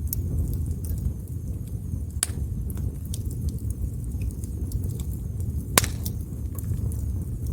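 Wood fire burning: a steady low rumble with scattered sharp crackles and pops from the burning wood, the loudest pop near the end.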